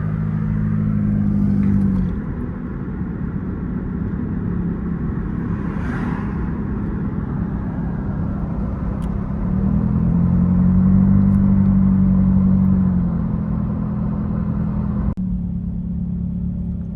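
Car engine and road noise while driving slowly. The engine note swells twice, briefly near the start and for a few seconds in the middle, and there is a single click near the end.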